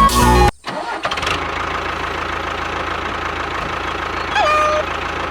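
Music cuts off about half a second in, then an engine runs steadily with a low hum. A short tone that rises and then holds level sounds about four and a half seconds in.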